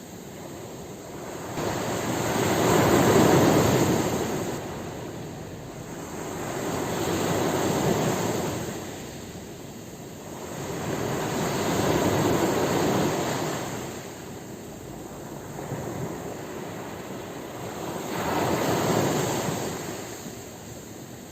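Ocean waves breaking on a shore, each surge of surf rising and falling away, four times, roughly every five seconds.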